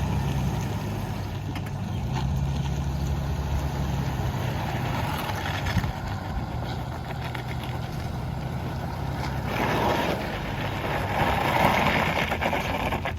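Vehicle engine running steadily at low speed, with louder rumbling, noisy surges about ten seconds in and again near the end.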